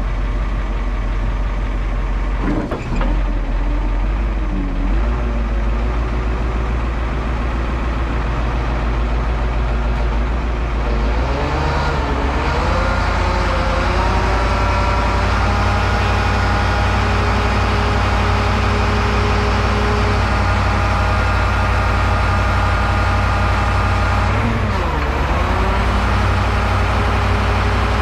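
Cat forklift engine running, its pitch dipping and recovering three times as the hydraulics are worked to cycle the fork positioners back and forth. The engine runs faster and louder from about eleven seconds in.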